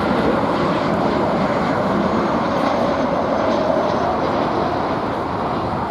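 Jet airliner's engines passing close by: a loud, steady rush of engine noise that begins to ease near the end.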